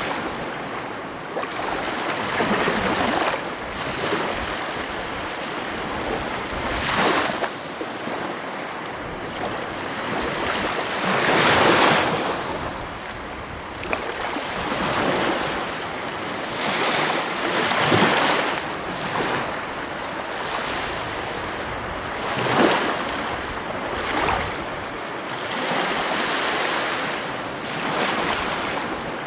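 Heavy ocean waves breaking on the coast: a continuous wash of surf that swells into louder crashes every few seconds, the biggest about twelve and eighteen seconds in.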